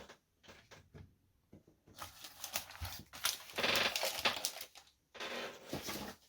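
Trading cards and their foil-pack packaging being handled: scattered small clicks and taps, then longer bouts of rustling and crinkling, loudest a little past halfway.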